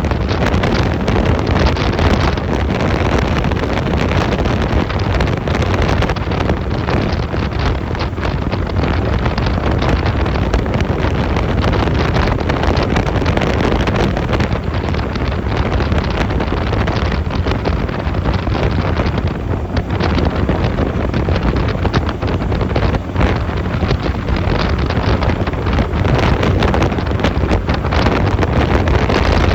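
Steady wind buffeting the microphone on a moving Honda 250cc motorcycle, with the bike's engine and road noise running underneath.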